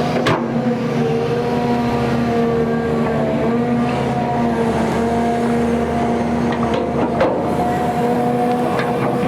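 XCMG XE310GA excavator's diesel engine running with a steady drone, with two sharp knocks, one just after the start and one about seven seconds in.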